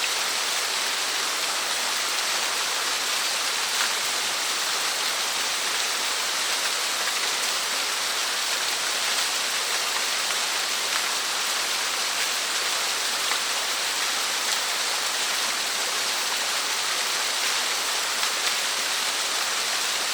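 Small waterfall, about a 3 m drop, splashing steadily: an even hiss of falling water with the odd faint splash standing out.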